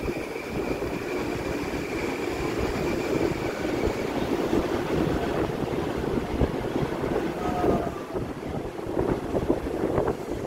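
Long Island Rail Road electric train running on the tracks: a steady rumble with a thin high whine that fades out about four seconds in, and a few sharp clicks near the end.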